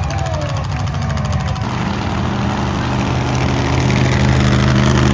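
A vehicle engine running steadily. Its tone changes about a second and a half in, and it gets louder in the second half.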